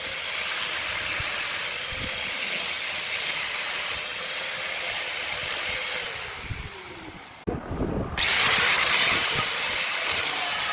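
Wood lathe turning a burl log, with the steady hiss of a tool cutting the spinning wood. About six seconds in the sound fades and a falling hum is heard as it slows. After a short break a louder steady hiss starts again.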